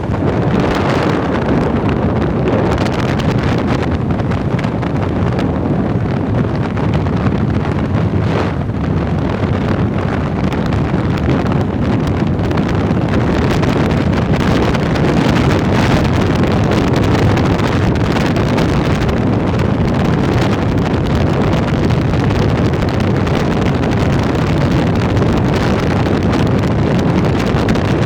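Loud, steady wind noise buffeting the microphone on a moving bike.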